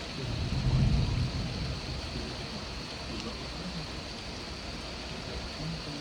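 Steady rain falling, with a brief low rumble about a second in.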